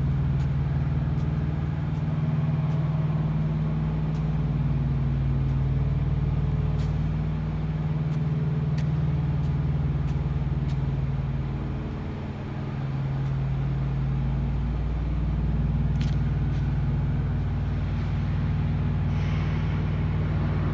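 Steady low drone of an idling diesel engine with a pitched hum, dipping briefly about twelve seconds in, with a few sharp ticks and a short hiss near the end.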